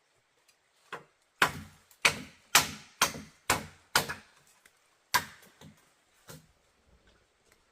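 A blade chopping into wood: seven sharp strikes, roughly two a second, with a few lighter taps before and after.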